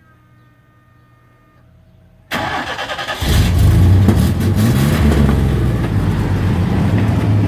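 1993 Chevrolet Silverado pickup engine being started: after a short quiet spell the starter cranks for under a second, then the engine catches, revs up and settles into a steady idle.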